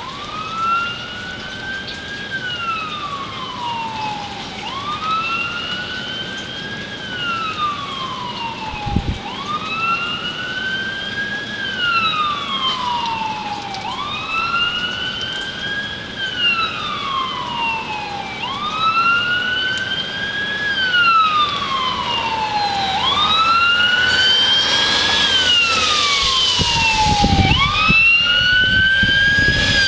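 Emergency vehicle siren in a slow wail, each cycle rising then falling over about four seconds, about seven times in a row. A rushing vehicle noise builds and the whole sound grows louder near the end.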